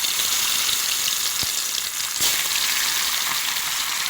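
Marinated chicken pieces deep-frying in hot oil: a steady, dense sizzle.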